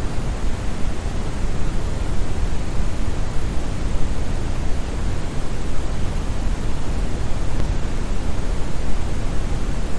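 Steady synthetic brown noise: an even, deep rushing hiss weighted toward the bass, with no changes.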